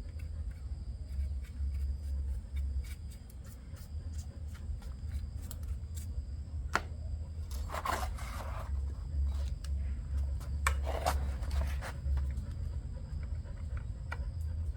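Hand tools clicking and scraping against metal machine parts during disassembly, with two longer scrapes about eight and eleven seconds in, over a steady low rumble.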